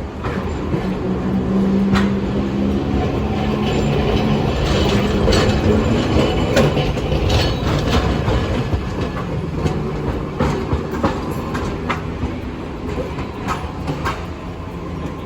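Hiroden streetcar running close by: a steady motor hum, with its wheels clicking over rail joints at irregular intervals.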